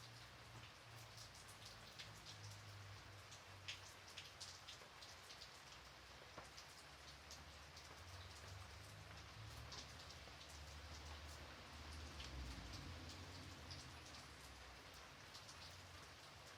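Faint, gentle rain: a steady soft hiss with many scattered individual drops ticking, over a low rumble.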